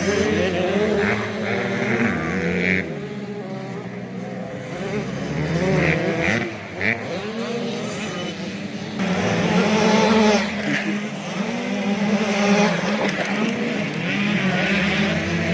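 Several 85cc two-stroke motocross bikes racing, their engines revving up and down and overlapping as they pass, loudest about two-thirds of the way through.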